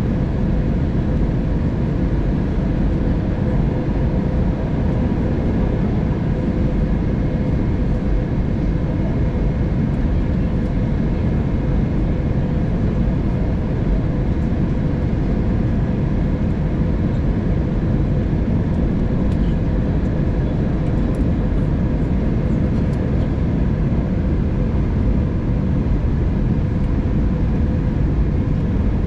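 Airbus A320neo cabin noise in descent: a steady rush of airflow past the fuselage and a low engine hum, with a few faint steady tones over it.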